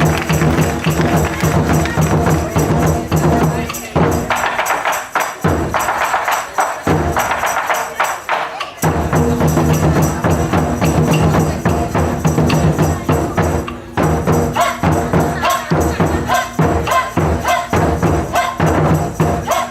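Taiko drum ensemble playing a fast, driving rhythm with other percussion. The deep drums drop out for about five seconds a few seconds in, while the lighter strokes carry on, then come back in.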